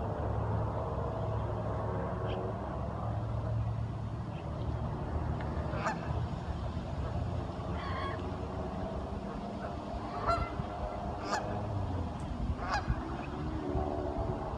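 Ducks calling repeatedly, with honking, nasal calls over a steady low rumble and a few sharp clicks.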